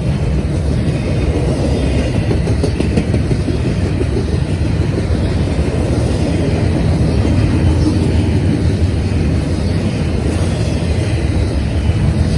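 Double-stack container well cars of a freight train rolling past close by: a steady, loud rumble of steel wheels on the rails.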